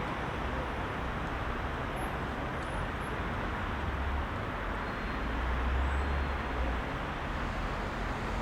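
Dense rush-hour city traffic: a steady rush of tyres and engines, with a deeper rumble of heavier vehicles swelling briefly in the middle and again a little later.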